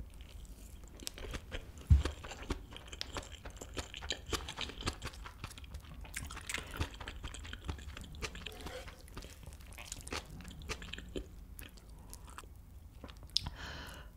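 Close-miked chewing of a mouthful of kimchi fried rice, with many small wet, crunchy clicks. There is one low thump about two seconds in.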